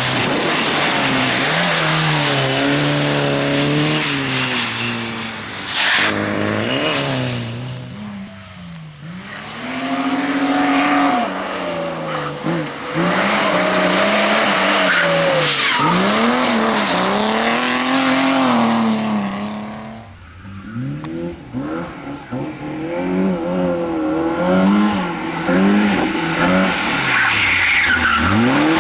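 Competition car engine driven hard, revving up and dropping again and again through gear changes, with tyres squealing. The engine sound dips twice, about a third and two thirds of the way through.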